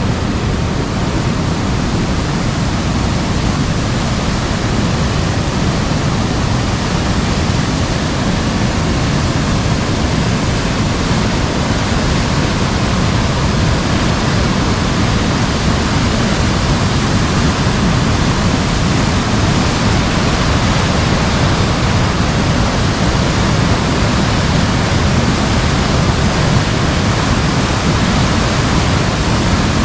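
Heavy rain falling steadily on an umbrella: a dense, even hiss with a strong low rumble underneath.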